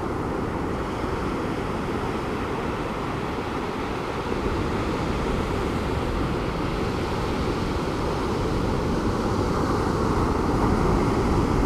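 Pacific Ocean surf breaking on a beach: a steady low rush of waves that swells a little about halfway through and again near the end.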